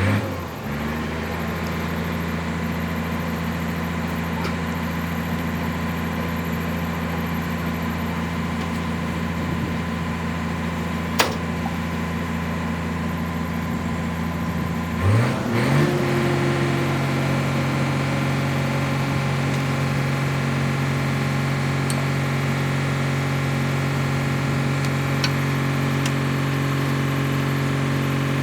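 Backhoe loader's diesel engine running steadily at idle. About halfway through its speed rises briefly and then holds at a slightly higher pitch. There is a sharp click about eleven seconds in.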